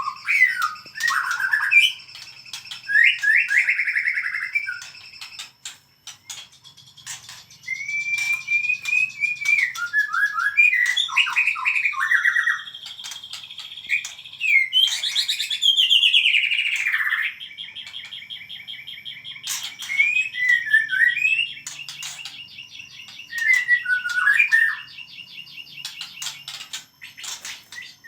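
White-rumped shama singing a loud, varied song of whistled phrases, fast rattling trills and harsh notes, in bursts separated by short pauses.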